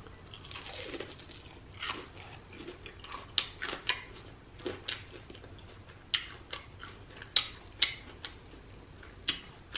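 A person biting into and chewing crispy deep-fried breaded seafood: wet mouth smacks and sharp crunching clicks at an irregular pace of a few a second.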